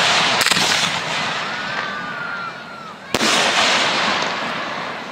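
Professional display fireworks (1.3G aerial shells) going off: a burst about half a second in and a loud bang about three seconds in, each trailing off slowly. A faint whistle glides in between.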